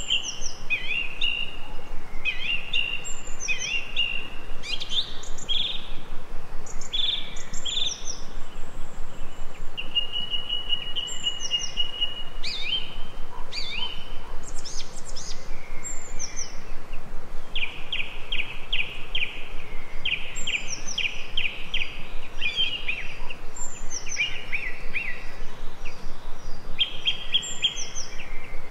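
Birds singing and chirping: short calls, some sliding down in pitch, and quick runs of repeated notes, over a steady background hiss.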